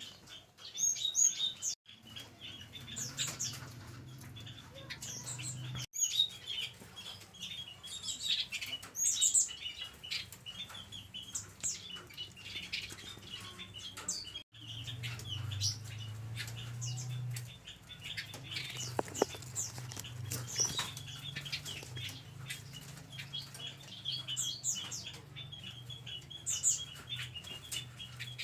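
A pair of caged Pekin robins (red-billed leiothrix) chirping rapidly and almost without pause, with sharp high notes and wing flutters and scuffles. The sound breaks off suddenly a few times.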